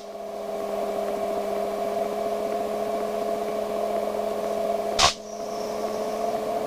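Light aircraft engine idling in a glide for a simulated engine failure, a steady drone heard inside the cockpit. A short sharp noise cuts in once about five seconds in.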